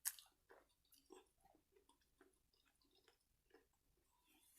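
Faint close-up chewing of fried seafood, a run of small soft mouth clicks and squishes with a sharper click right at the start.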